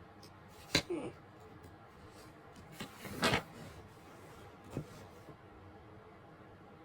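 A few light knocks and clicks at irregular intervals, the loudest about three seconds in, over a faint steady hiss.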